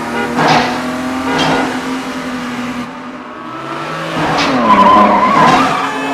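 Car chase sound: engines running and revving, with tyres squealing in several skids, the longest and loudest a little before the end.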